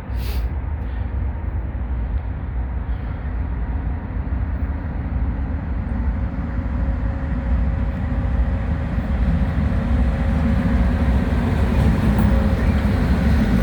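Norfolk Southern intermodal freight train approaching and passing, a steady low rumble of diesel locomotives and rolling cars that slowly grows louder.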